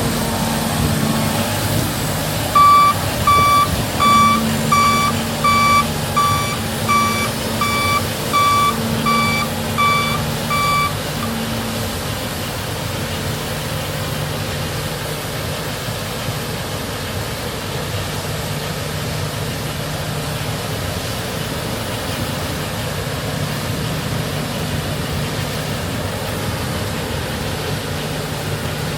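A vehicle's reversing alarm gives about a dozen evenly spaced beeps, then stops, over a heavy diesel engine that keeps running steadily.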